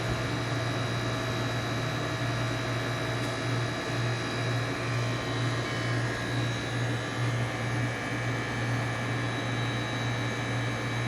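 Steady low hum and whir of fans and motors running, with the low hum pulsing gently about halfway through.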